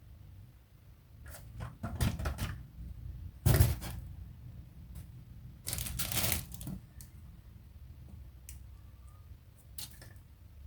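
Toys and their packaging being handled: scattered clicks and rustles, with a loud knock about three and a half seconds in and a longer rustle around six seconds.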